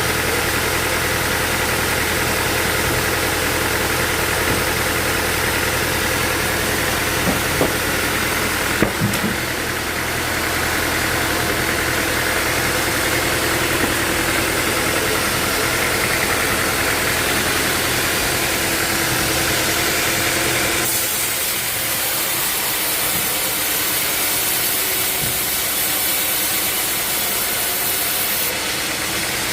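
Sawmill machinery running steadily: an engine hum with a few sharp knocks around 7 to 9 seconds in. About 21 seconds in, the low hum abruptly drops away and a high hiss comes up.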